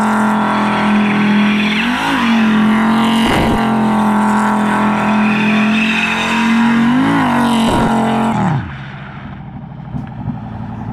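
Audi 90's five-cylinder engine held at high, steady revs through a wheelspinning burnout, the pitch wobbling briefly twice. About eight and a half seconds in the revs drop off and the sound gets much quieter.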